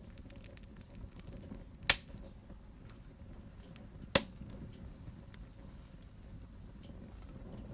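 Wood fire burning in a fireplace with a low rumble and light scattered crackles, broken by two loud sharp pops about two seconds apart.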